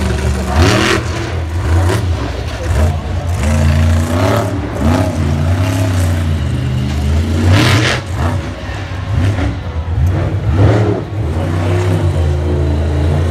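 Monster truck engine revving hard, its pitch rising and falling over and over as the throttle is worked, with two loud bangs, about a second in and about eight seconds in.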